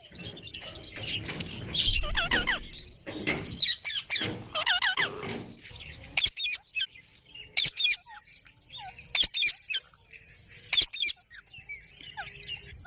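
Ringneck parrots calling: a run of chattering, sweeping calls in the first half, then scattered short sharp calls and clicks.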